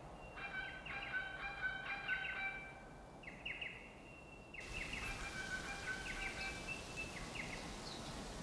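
Forest birds calling: short chirping notes repeated in quick groups, over faint ambience. The background hiss rises about halfway through.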